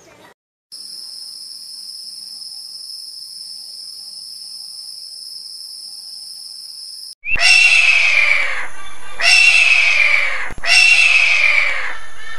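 A steady high-pitched insect buzz, like a cricket or cicada, cuts off about seven seconds in. An animal then calls loudly three times, each call sliding down in pitch.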